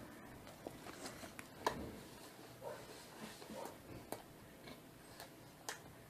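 Faint chewing with the mouth closed: scattered soft wet clicks and smacks, roughly one every half second to a second, over low room hiss.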